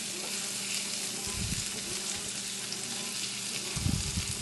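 Diced onion sizzling in hot bacon fat on an electric griddle plate, stirred with a silicone spatula, over a steady low hum. Two soft knocks come about a second and a half in and near the end.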